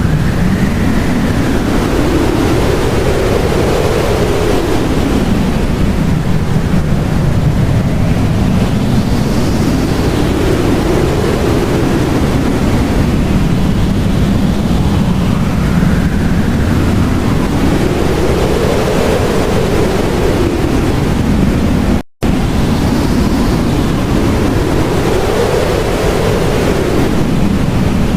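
Blizzard wind, a loud steady rush with gusts that swell and fade, each rising and falling in pitch over a few seconds like a howl. The sound cuts out for an instant about three quarters of the way through.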